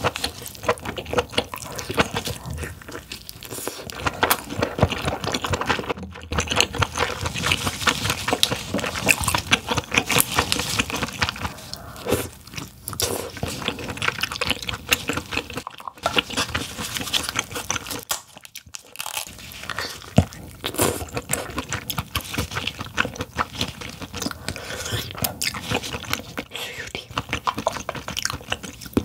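Close-miked eating of king crab: wet chewing and crunching with many small crackling clicks, pausing briefly a few times.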